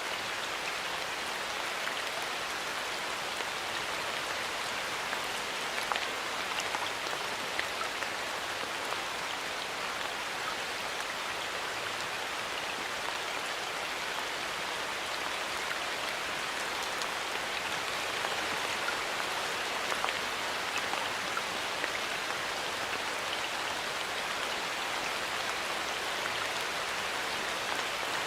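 Steady light rain falling in a forest, an even patter with occasional sharper individual drops striking leaves and surfaces.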